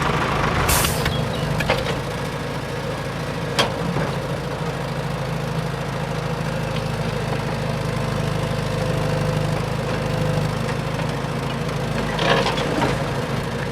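A motor running steadily, with a few sharp knocks and a short hiss about a second in and again near the end.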